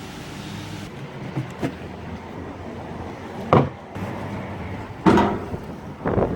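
A steady machine hum that stops about a second in, then a handful of separate knocks and clanks, the loudest about three and a half seconds in and again near the end.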